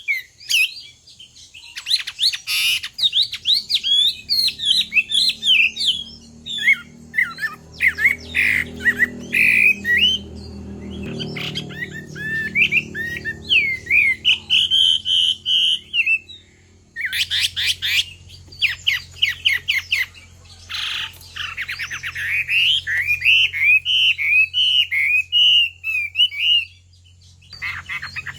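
Chinese hwamei (melodious laughingthrush) singing: loud, fast phrases of rising and falling whistled notes, broken several times by runs of harsh, rasping notes.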